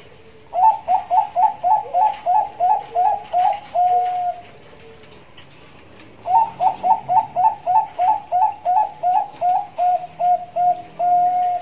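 Zebra dove (Bangkok-bred perkutut) singing two phrases, each a fast run of about a dozen short rising coos that ends in a longer held note. This is the 'nduduk ngitit' song style that keepers use to train and lure other perkutut.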